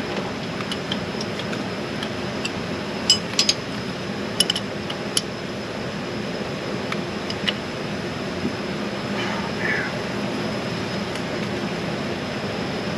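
Steady workshop background hum with a handful of sharp metallic clinks, hand tools and small metal parts knocking together during engine work. Most of the clinks fall in a cluster a few seconds in, with one more a couple of seconds later.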